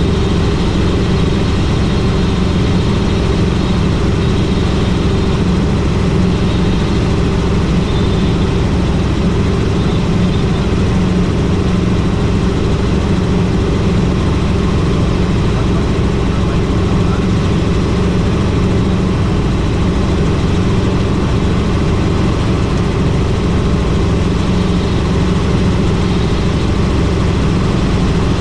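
Helicopter in flight: steady, loud drone of the engine and rotor.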